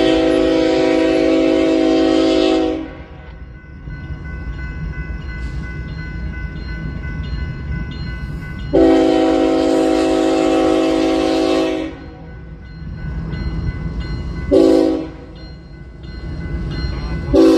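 Locomotive air horn sounding the grade-crossing signal: two long blasts, a short one, and a fourth long one starting near the end, over the steady low rumble of the train.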